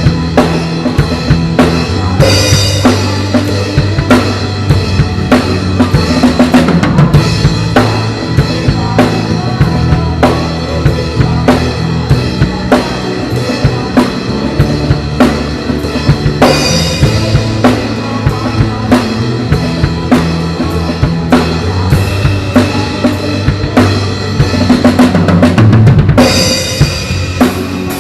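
Drum kit played over a backing track, with a steady bass drum and snare beat. Cymbal crashes ring out about two seconds in, a little past halfway, and near the end.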